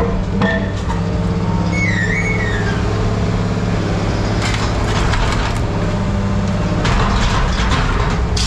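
Heavy scrap-handling machine's diesel engine running steadily while scrap metal is crushed and torn. A brief high metal squeal comes about two seconds in, and louder crunching comes around halfway and again near the end.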